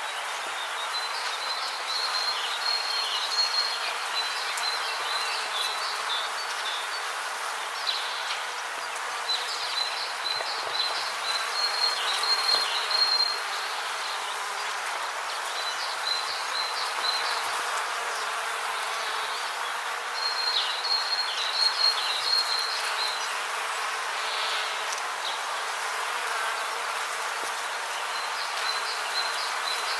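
Rainforest ambience: a steady hiss overlaid with bouts of high, trilling insect calls, each lasting a few seconds and recurring about five times.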